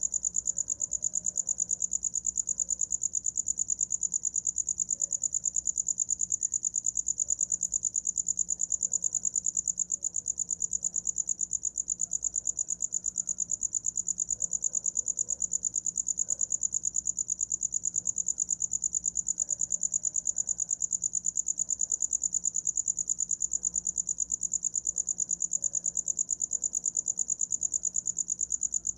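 A cricket chirping continuously in a fast, even pulse, high-pitched and unchanging.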